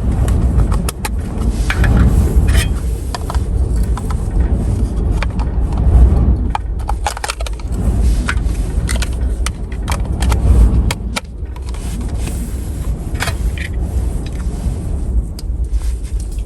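Strong gusting wind buffeting the microphone in a low, surging rumble, with scattered clicks and scrapes over it.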